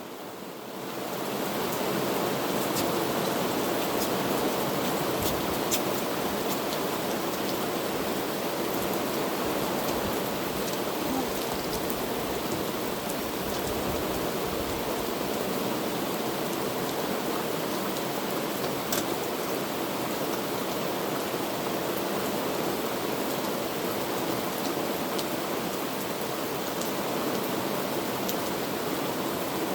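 Heavy rain falling steadily, an even hiss with scattered drop ticks. It fades in over the first second or so.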